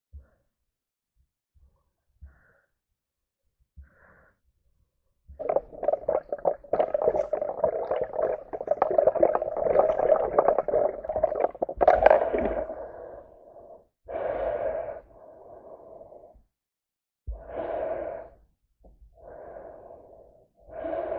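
A swimmer's heavy breathing through a snorkel with water noise: nearly silent for about five seconds, then a long noisy stretch of about eight seconds, then shorter separate breaths of a second or two each.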